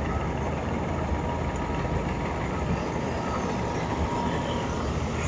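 Heavy road-construction machinery running: a steady low engine rumble with a faint thin metallic whine on top.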